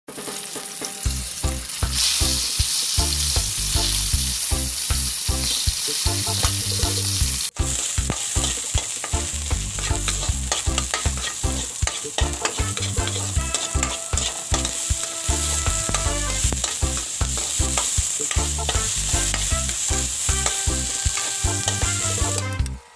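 Food frying in hot oil in a pan, a steady loud sizzle with stirring, broken off briefly about seven and a half seconds in.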